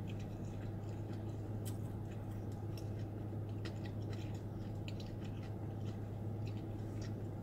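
A person chewing noodles, with faint scattered wet clicks and small sounds of a fork on a plate, over a steady low hum.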